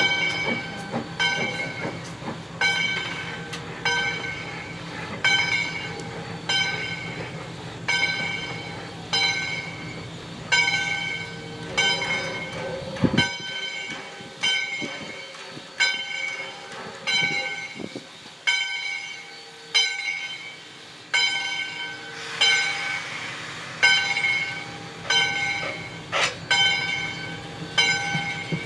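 Steam locomotive bell ringing steadily, about one stroke every 0.8 seconds, over the low rumble of the train rolling. The rumble drops away about halfway through while the bell keeps ringing.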